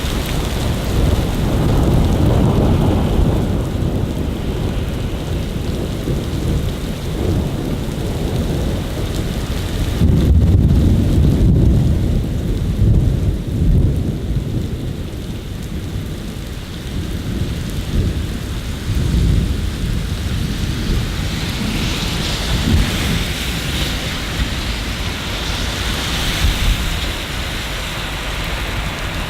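Steady rain falling with deep, rolling rumbles of thunder, strongest about ten to fourteen seconds in. Toward the end the rain hiss grows brighter.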